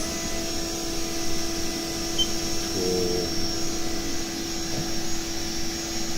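Haas VF-3 CNC vertical machining center running a program: a steady spindle whine over the machine's even mechanical hum, with a brief warbling sound about three seconds in.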